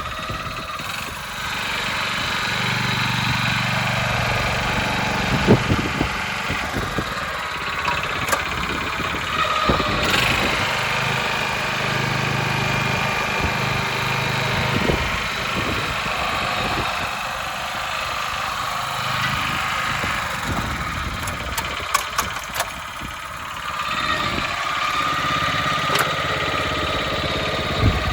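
Iseki KCR63-HX cultivator's 5.3 PS FE161G gasoline engine running. Its note and loudness shift up and down several times, with a few sharp clicks along the way.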